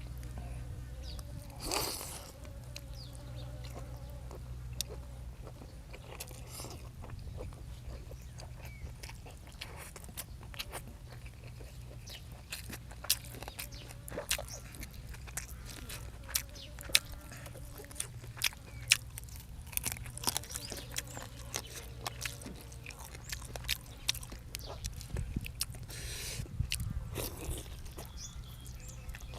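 Close-up eating sounds: a person chewing and biting, with many sharp crunches and clicks at an irregular pace, over a steady low hum.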